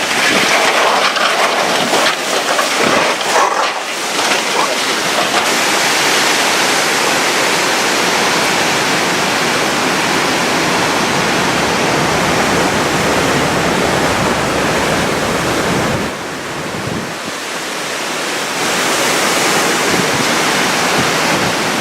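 Hurricane-force wind and driving rain: a loud, continuous rushing noise that gusts in the first few seconds. It eases for a moment about sixteen seconds in, then builds again.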